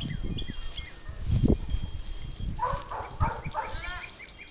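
Small songbirds chirping repeatedly in short, high, falling notes. About two and a half seconds in, an animal gives a quick series of about four short arched calls.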